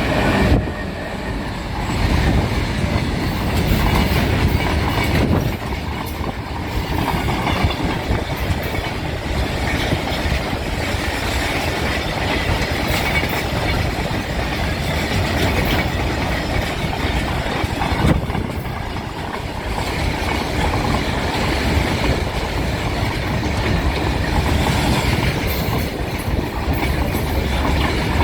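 Goods train running at speed on the rails, a continuous heavy rumble and rattle of freight wagons with wheels clattering over the rail joints.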